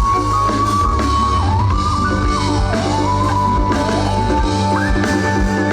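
Live rock band playing an instrumental passage: drum kit and bass under a lead melody line that slides up and down between held notes, climbing to a higher sustained note near the end.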